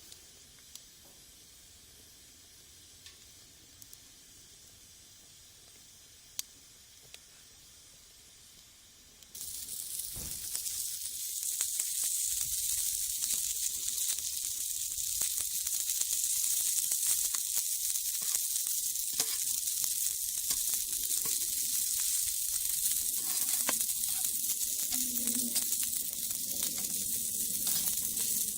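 Shishamo sizzling on a wire grill net over a rocket-stove wood fire, a steady high hiss that starts abruptly about nine seconds in. Before that there is only quiet with a few faint clicks.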